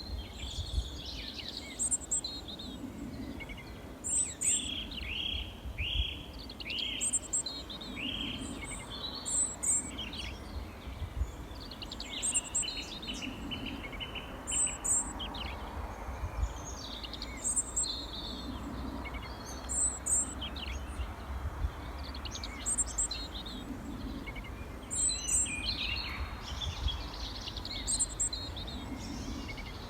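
Small songbirds chirping and calling, several at once, with one short high chirp repeating about every two seconds, over a steady low rumble.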